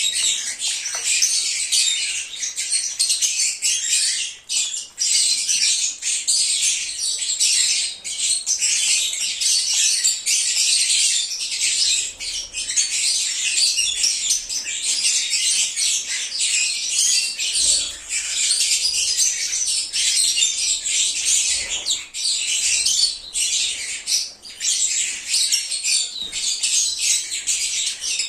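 Lovebirds (Agapornis) chirping and chattering nonstop, many high-pitched calls overlapping.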